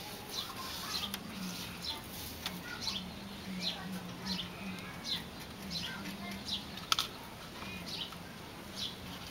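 A bird calling in a steady series of short, high, falling chirps, one about every half second, over a low hum that comes and goes; a single sharp click about seven seconds in.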